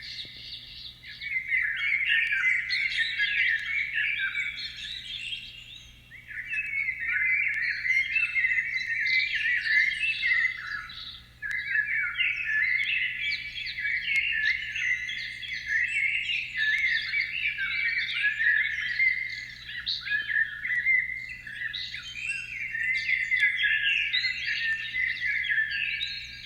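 Birds chirping and chattering in a dense, overlapping stream of calls, with brief lulls about six and eleven seconds in.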